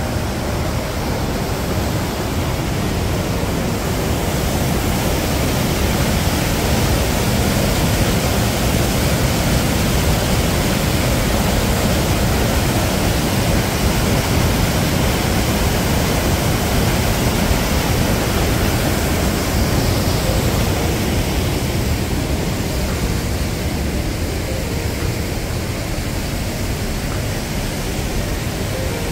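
Rushing water of a mountain river or waterfall in a rocky gorge: a loud, steady, even rush with no breaks.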